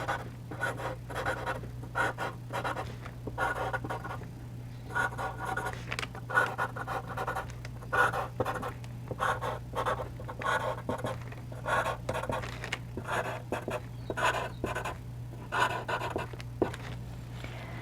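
4B charcoal pencil scratching on textured charcoal paper in many short, quick strokes, drawing in small marks.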